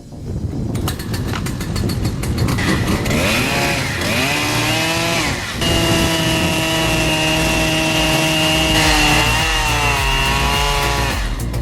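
Two-stroke chainsaw engine revving. Its pitch climbs, holds high and steady at full throttle for a few seconds, drops about three quarters of the way through, and climbs again before cutting off near the end.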